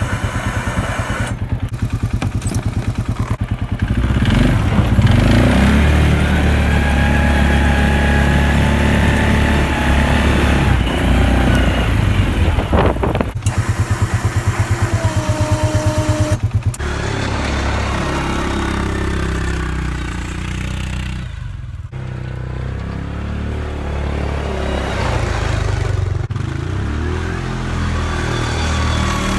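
Arctic Cat 500 ATV's single-cylinder engine running under load while it pushes deep snow with its front plough blade, the revs rising and falling. The engine picks up about four seconds in and eases off past the middle, with a brief knock about halfway through.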